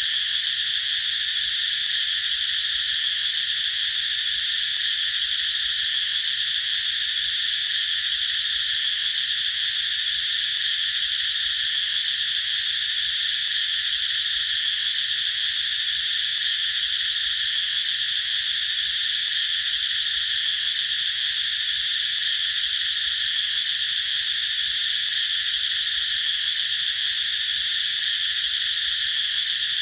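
Chorus of cicadas singing in a steady, unbroken, high-pitched drone.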